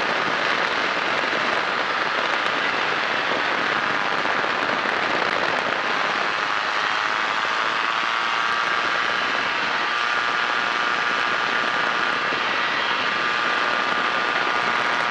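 Kolb Firefly ultralight airplane's engine and propeller droning steadily in level flight, heard on board, with no change in power.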